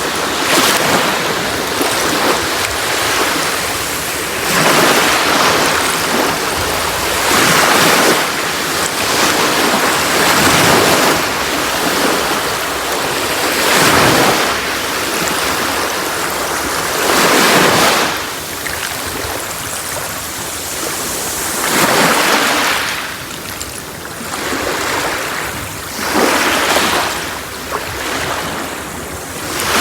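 Sea waves breaking and washing on a beach, a continuous rush of surf that swells every few seconds as each wave comes in.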